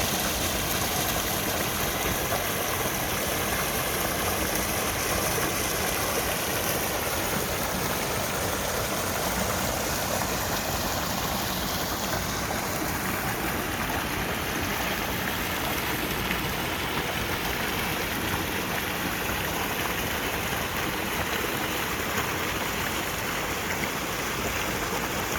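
A small waterfall on a snowmelt creek, its water rushing and splashing steadily, running hard with spring runoff.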